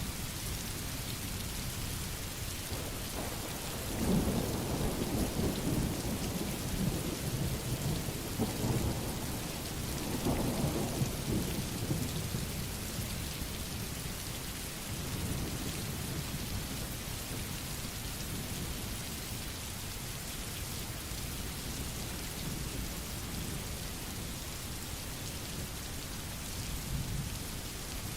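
Steady rain falling, with a long roll of thunder rumbling about four seconds in and dying away after a few more seconds.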